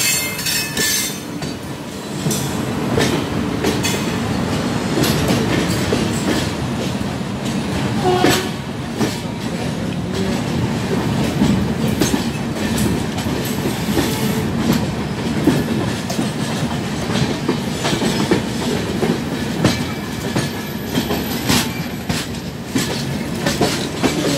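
Passenger train running on the rails, its wheels clicking and clattering irregularly over rail joints under a steady rumble, heard from an open coach door.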